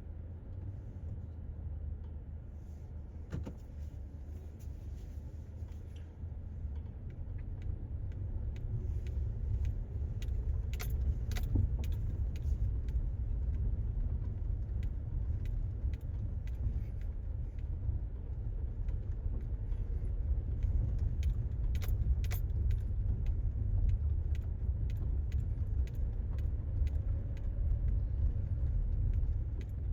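A car driving slowly on a rough dirt road: a steady low rumble of tyres and engine that grows louder about six seconds in, with frequent small clicks and rattles from loose items jostling.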